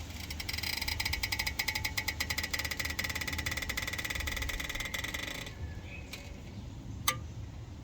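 Rapid metallic chattering, about a dozen clicks a second, as a brake caliper is prised back against its retaining spring, which judders. It stops about five and a half seconds in, and a single sharp click follows near the end.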